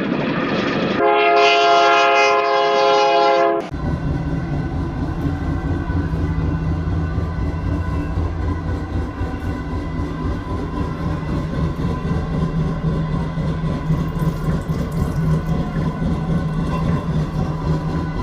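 A passenger train's horn sounds one steady blast lasting about two and a half seconds, a second into the sound. It cuts off sharply into the steady running noise of the moving train, with a low hum, heard from on board.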